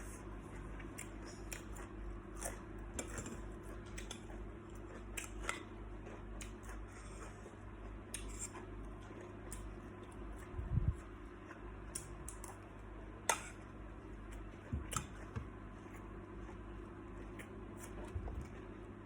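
Eating salt-baked shrimp: scattered crisp clicks and crackles of shrimp shells being handled and bitten, with a dull knock against the table or dish about 11 seconds in.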